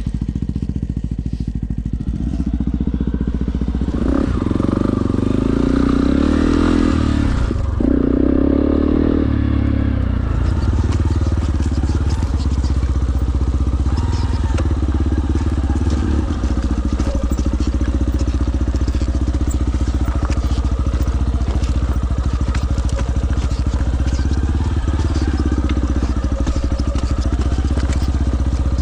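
Dirt bike engine running steadily under way on a rough mountain track, with light rattles and knocks over the rumble.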